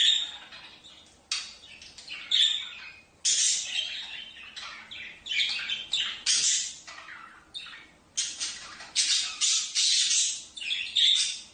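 Birds giving a string of loud, harsh squawks, one every half second to a second.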